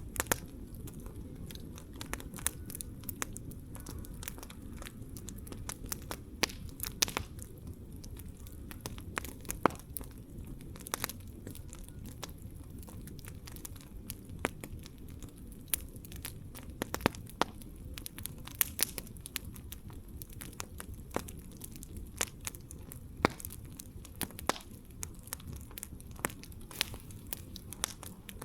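Wood campfire crackling: a steady low rumble of flames with frequent sharp, irregular pops and snaps from the burning wood.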